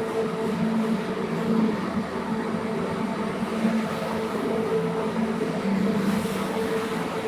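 Motor-driven carpet-cleaning machine running steadily: a constant motor hum under a rushing noise.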